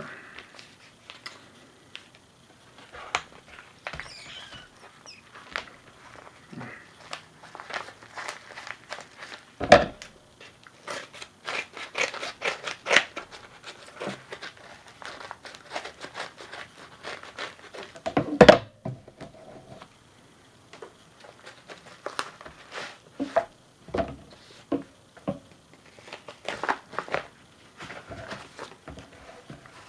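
Paper mail packaging being handled and opened by hand: a long run of rustling, crinkling and tearing, with two louder thumps about ten seconds in and again about eighteen seconds in.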